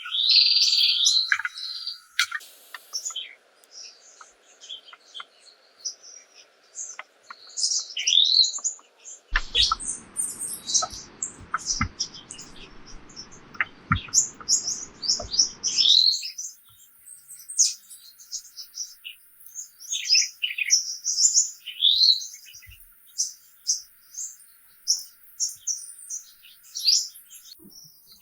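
Wild birds chirping and singing, with many short calls and quick trills. About nine seconds in, a low, even rushing noise starts abruptly under the birdsong and cuts off about sixteen seconds in.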